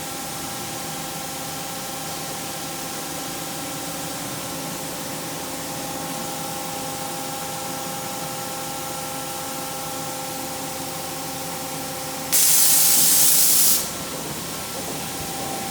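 CNC mill-turn machine running steadily, a steady whine of several tones over a hiss of spray. About twelve seconds in, a loud burst of hissing blast lasts about a second and a half, then stops suddenly.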